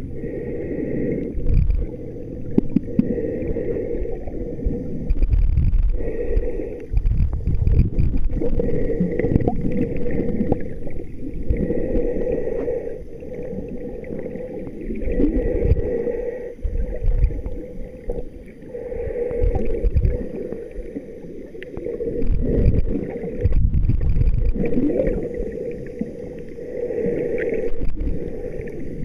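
Muffled water sloshing and gurgling, with irregular heavier surges every few seconds.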